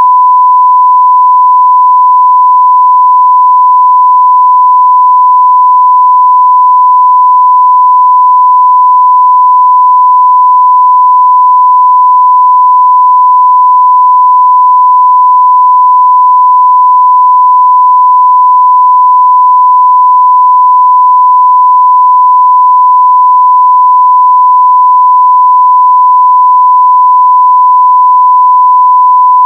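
Continuous 1 kHz sine-wave test tone at full level, one pure steady pitch with no change.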